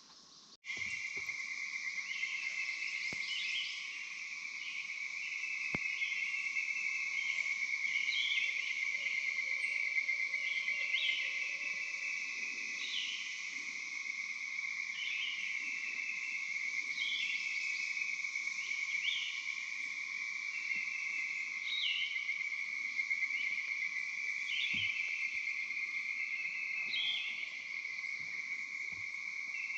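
Swamp chorus of frogs and insects: a steady high buzzing drone, with short calls repeating over it about once a second. It starts abruptly just after the beginning.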